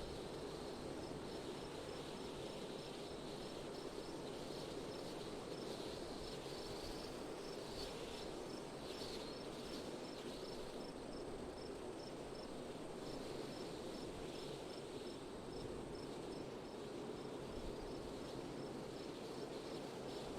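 Steady wind rushing outdoors, with an insect chirping at an even pace of about two chirps a second over it.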